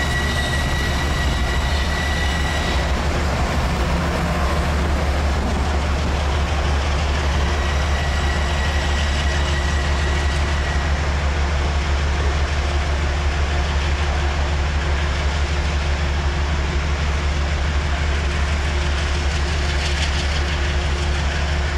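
Train running with a steady low rumble. A high electric whine holds for the first three seconds, then stops, and returns faintly around the middle.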